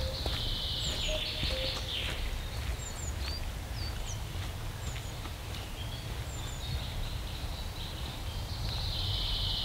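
Woodland birds singing: scattered short, high chirps and whistles, with a longer buzzy trill in the first two seconds and another near the end, over a low rumble.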